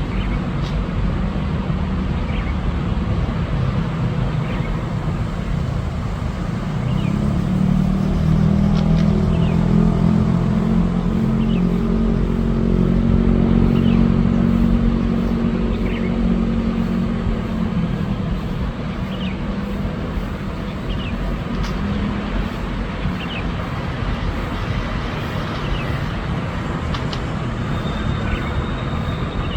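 Steady road-traffic rumble, with a motor vehicle's engine growing louder and then fading during the first half or so. Short faint high chirps sound over it now and then.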